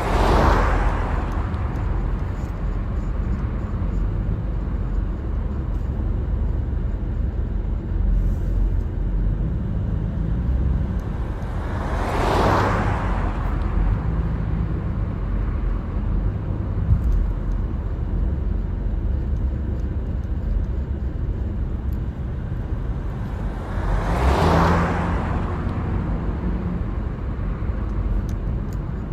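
Steady low road rumble of a car driving, with three whooshes of passing vehicles, one near the start, one about halfway and one near the end.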